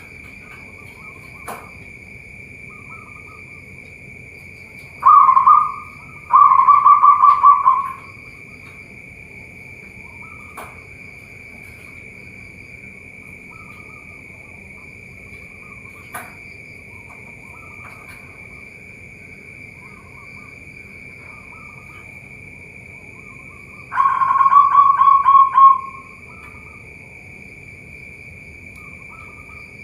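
Zebra doves (perkutut) cooing: three loud rapid-pulsed coo phrases, two close together about five seconds in and one more near the end, with softer calls between them. A steady high-pitched whine lies under them.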